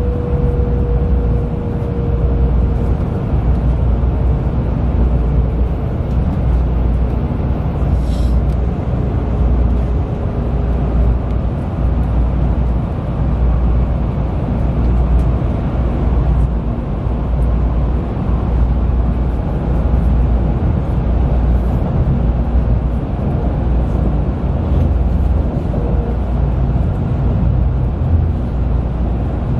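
Cabin noise inside a Sanyo Shinkansen bullet train in motion: a steady low rumble from the running train. A faint whine falls slowly in pitch over the first ten seconds.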